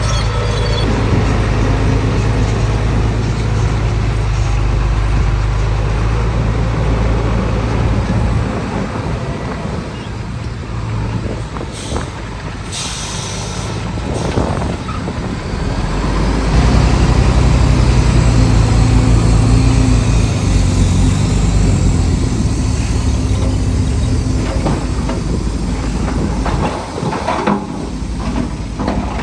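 Heavy diesel engine of earthmoving machinery running under load, its low drone easing off a few seconds in and building up again about halfway through. A short hiss of air about twelve seconds in, like a truck's air brake.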